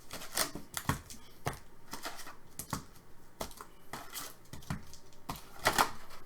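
Hockey card packs and cards being handled: foil wrappers crinkling and tearing, with irregular sharp clicks of cards against each other and a longer rustle near the end.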